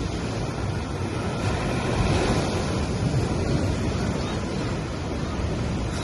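Sea waves breaking and washing up on a beach, a steady surf wash that swells about two seconds in, with some wind on the microphone.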